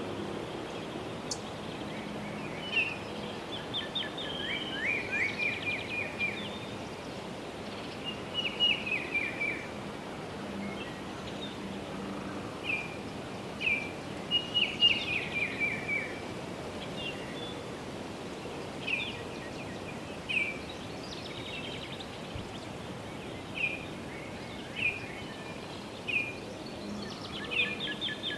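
Songbirds singing in short bursts of quick, falling chirps and trills every few seconds, over a steady background of distant road hum and wind in foliage.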